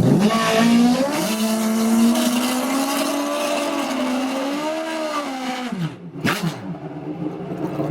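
Drag racing motorcycle engine held at high revs for about five seconds, wavering slightly, then its revs drop away. A short sharp crack follows about six seconds in, then a lower, steadier engine note.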